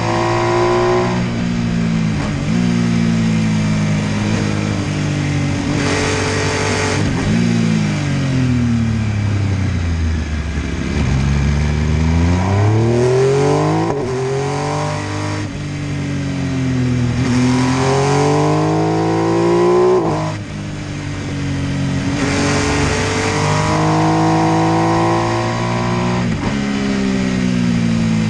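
MV Agusta F3 800's inline three-cylinder engine under hard riding, the revs climbing and snapping down again as it shifts through the gears. About a third of the way in the revs fall off for a few seconds as the bike slows, then build again through more shifts.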